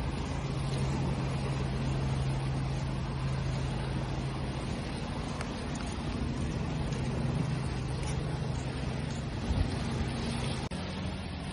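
Steady wash of surf with a low engine-like hum droning underneath.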